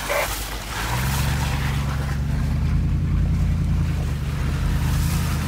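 Toyota Land Cruiser 100's V8 engine running steadily under load on a dirt track, heard from inside the vehicle; its low hum comes in about a second in and holds steady, over rushing wind noise.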